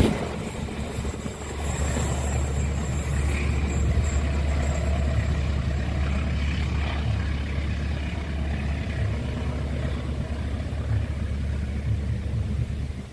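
Steady low engine rumble, like vehicles or a locomotive idling, running evenly after a louder passing sound cuts off at the start.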